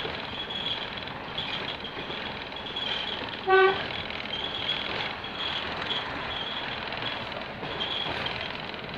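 Class 121 diesel railcar running along the line, heard from inside the carriage, with one short single-note toot of its horn about three and a half seconds in.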